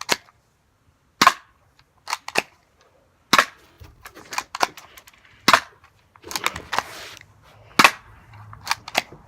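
G1 airsoft pistol firing black BBs at a plastic cup: a dozen or so sharp cracks spaced unevenly, with a short hiss about seven seconds in.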